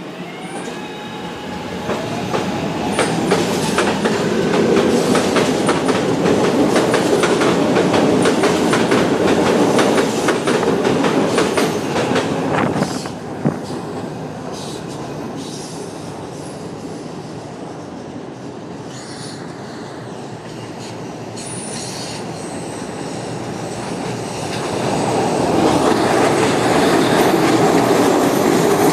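SEPTA Market-Frankford Line subway-elevated train (M-4 cars) pulling out with a rising motor whine, then running loud with wheels clattering over rail joints and fading away. About 24 seconds in, a second train builds up loud as it comes in and passes close by.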